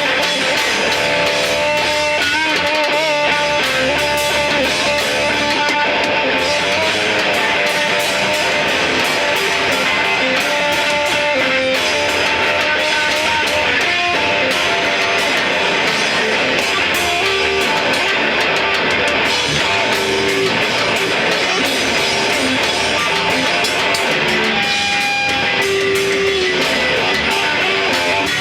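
A rock band playing loud and distorted, with electric guitar strumming and a lead guitar holding and bending notes.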